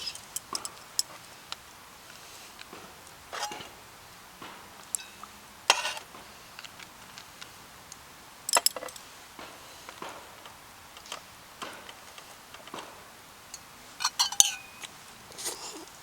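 Metal cookware and utensils being handled: irregular clinks and taps, a few of them ringing briefly, with louder clusters about halfway through and near the end.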